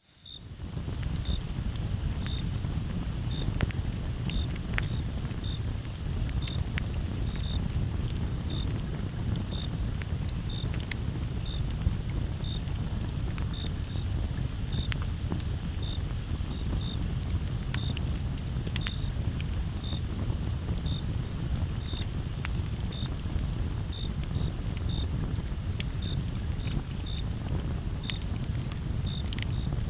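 Campfire crackling, with sharp pops and snaps of burning wood over the low rumble of the flames. Crickets chirp over it: a steady high trill, and single chirps repeating about once a second.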